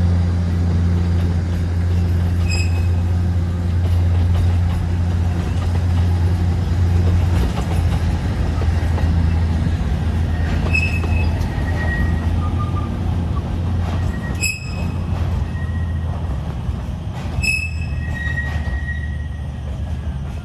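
Alishan Forest Railway diesel train running, its engine giving a steady low drone, with brief high-pitched wheel squeals a few times and a longer squeal near the end.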